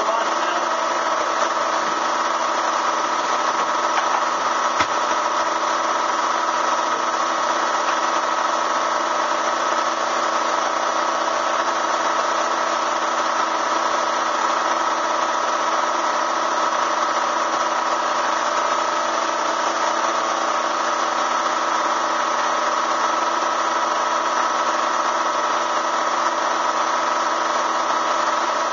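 Bee vacuum motor running steadily with an even, unchanging high hum.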